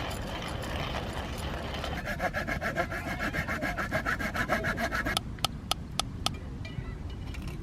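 Saw cutting wood: a fast, even rasping rhythm that grows louder about two seconds in and stops abruptly a few seconds later, followed by four sharp clicks.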